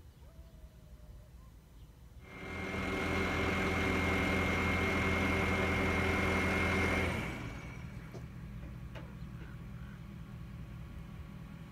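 An engine running at a steady pitch with a high whine, starting about two seconds in and cutting off after about five seconds, over a low background rumble.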